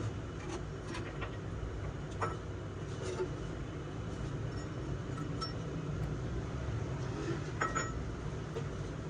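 A few light metallic clinks, metal parts or tools knocked together with a brief ring, over a steady low rumble.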